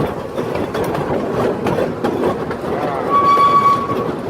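Miniature ride train running, its cars rumbling and clattering along the track. A steady high-pitched tone comes in about three seconds in and holds for about a second.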